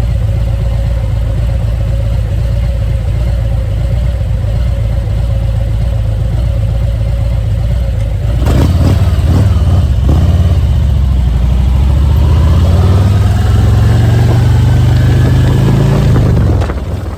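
Harley-Davidson Road Glide Ultra's V-twin engine running steadily at low revs, then about eight seconds in it gets louder and climbs in pitch as the bike accelerates, easing off just before the end.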